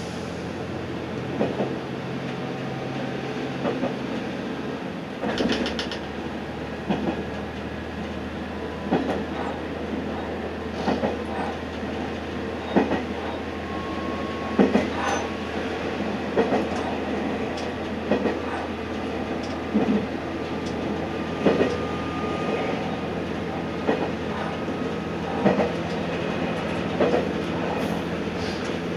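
Amagi Railway diesel railcar running along the line, heard from inside the car: a steady engine drone, with the clickety-clack of the wheels over rail joints about every two seconds. The engine note shifts about five seconds in.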